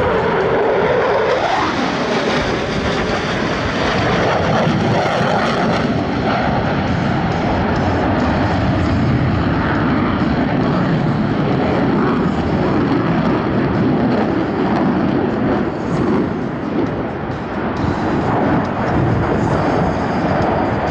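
Jet engine noise from Blue Angels F/A-18 Super Hornets flying past, a loud continuous roar with a whine that drops in pitch in the first second.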